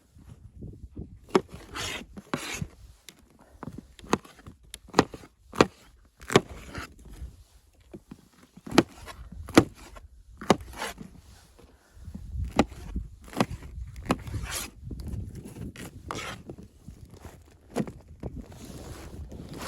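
Irregular knocks, clicks and rubbing of objects being handled, with sharp taps every second or so, busier with low scuffing in the second half.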